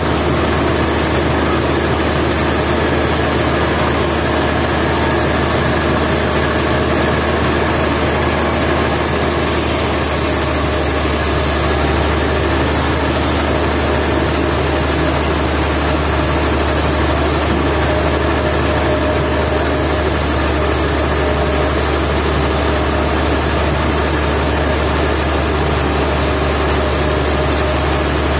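Sawmill machinery running with a loud, steady engine drone and no breaks or changes.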